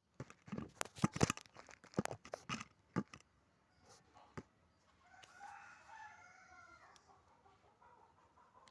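A rapid run of sharp knocks and clatters over the first three seconds, then a rooster crowing, one drawn-out call about five seconds in.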